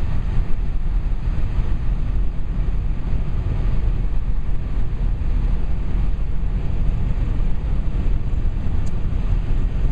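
Steady low rumble of wind and road noise from a moving vehicle, with no distinct events.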